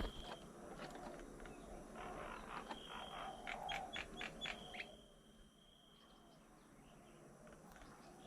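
Birds calling around a feeding table: low dove-like coos in the first half, a quick run of sharp chirps about four seconds in, and a thin, high, held whistle. The second half is quieter.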